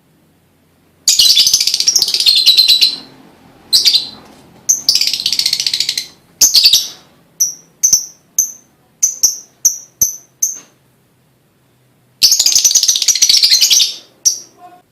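Lovebird chattering loudly in long, harsh, high-pitched bursts, with a run of short single chips in the middle.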